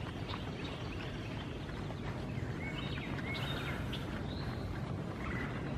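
Outdoor woodland ambience with a steady low background noise and a few short bird chirps, clustered about halfway through.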